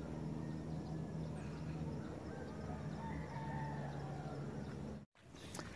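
A bird calling, a few drawn-out notes about two to three seconds in, over a steady low hum. The sound cuts out for an instant near the end.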